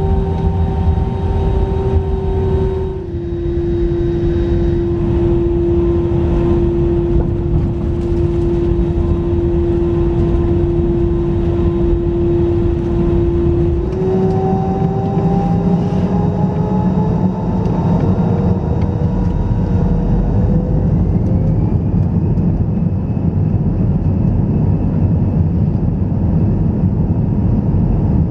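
Airbus A321 jet engines heard from inside the cabin, with a steady whine over a dense rumble. About halfway through they spool up: the whine rises in pitch for several seconds and then holds higher and steady.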